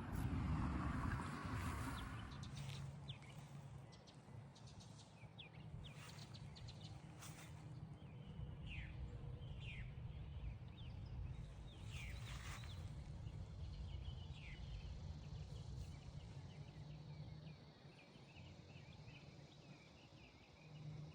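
Outdoor ambience: a steady low rumble with scattered bird chirps, several of them short downward-sweeping calls through the middle.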